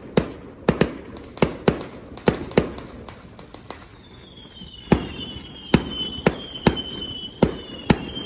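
Fireworks going off: a run of sharp, irregular bangs, about two a second, with a short lull partway through. A high whistle that slowly falls in pitch sounds under the bangs through the second half.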